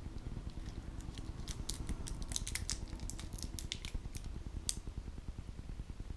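Shrink-wrapped plastic packaging around small model counterweight blocks being handled, giving a quick run of sharp crinkling clicks through the middle of the stretch.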